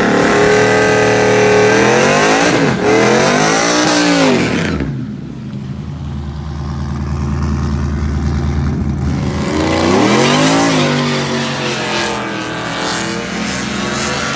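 Drag-racing truck engines revving hard at the strip, the engine pitch dipping and climbing. About five seconds in the close engine note drops away to a low drone, and around ten seconds in a rising engine note swells back.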